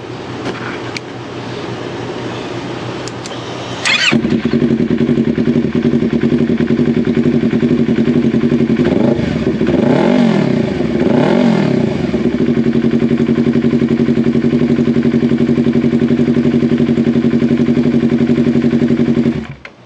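Yamaha R3's 321 cc parallel-twin engine starting about four seconds in and idling steadily, with two quick rev blips in the middle, then shut off just before the end. It is run briefly to circulate fresh oil after an oil change so the level can be rechecked.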